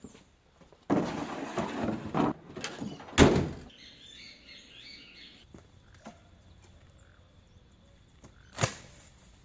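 A scraping rustle, then a single loud knock, followed by a bird chirping briefly and a sharp click near the end.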